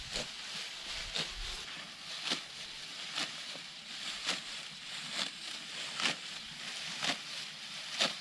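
Rice stalks being cut by hand with a sickle, one short stroke about every second.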